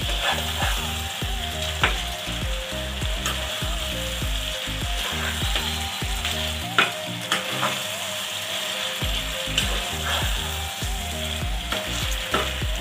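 Chicken pieces frying in masala over a high gas flame, sizzling steadily, while a metal spatula stirs and scrapes the pan with a sharp click every second or so.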